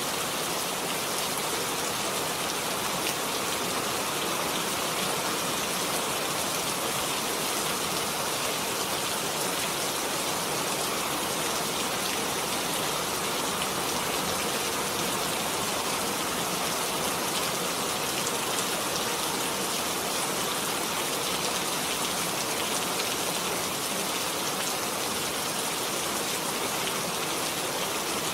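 Steady rain falling on a surface, a dense even patter of drops without letup.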